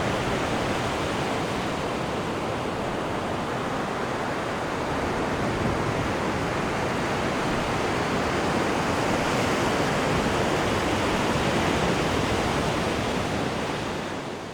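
Churned water of a cruise ship's wake rushing steadily off the stern, an even wash of waves with no breaks. It begins to fade out near the end.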